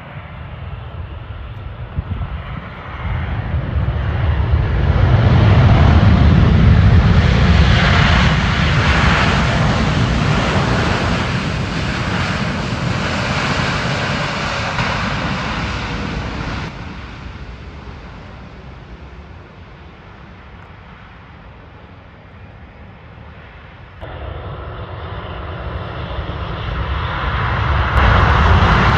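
Airliner engines as a plane passes low near the airport runway, the noise swelling to a peak about six seconds in and then slowly fading. About three-quarters of the way through the sound jumps up abruptly and the engine noise of another pass builds toward the end.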